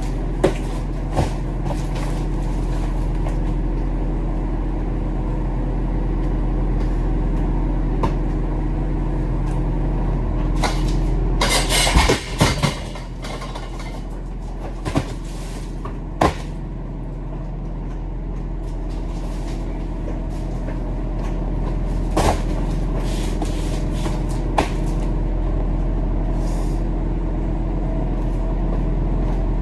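Tractor-trailer's diesel engine running steadily, heard from inside the cab, with scattered clicks and rattles. A brief, louder burst of noise comes about twelve seconds in.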